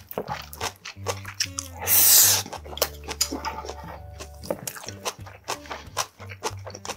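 Close-miked chewing of a mouthful of food, with many short wet mouth clicks, over soft background music with a steady bass. A louder, noisy burst about two seconds in is the loudest sound.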